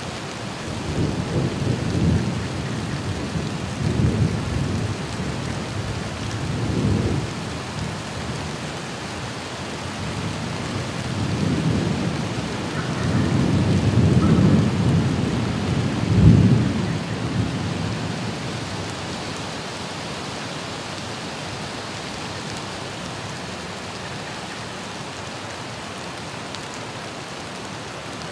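Thunder rumbling in several rolling waves over steady rain, the loudest crack about sixteen seconds in. The thunder then dies away, leaving only the hiss of the rain.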